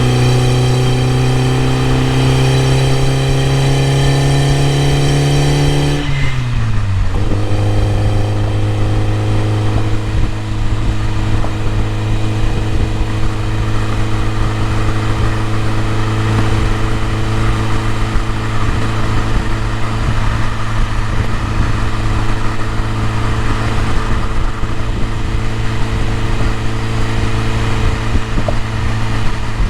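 BMW E30 M3's four-cylinder engine pulling under load, its note climbing slowly. About six seconds in the pitch drops, and the engine then holds a steady, lower note.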